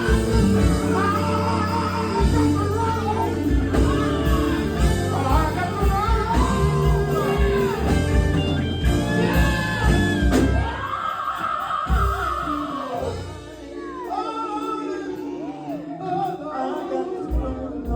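Gospel quartet song performed live: long, held sung notes over a band with electric guitar and bass. The bass and low end drop away about twelve seconds in, leaving the voices and guitar lighter.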